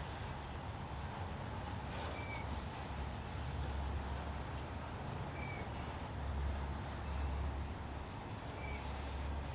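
Norfolk Southern train rumbling steadily, with a short high squeak that recurs about every three seconds.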